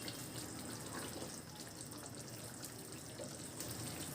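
Chicken bhuna curry simmering in an uncovered pan, with a faint steady bubbling and light crackling sizzle as the gravy cooks down.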